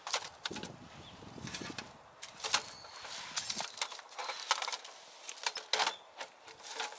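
A string of irregular clicks and knocks, with a low rumble under them during the first few seconds.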